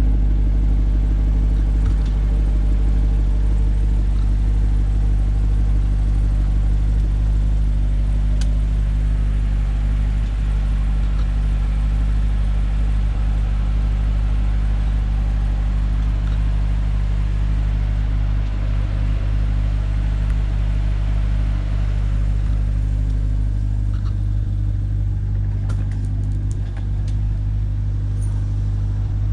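2020 Corvette C8's 6.2-litre LT2 V8 idling steadily after a cold start.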